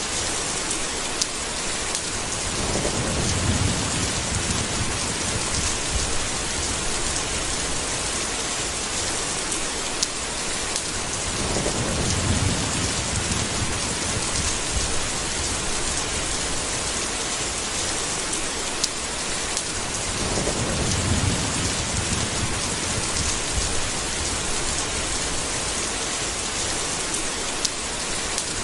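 Steady heavy rain with thunder rolling in low rumbles three times, about every nine seconds, and a few sharp drip ticks over the rain.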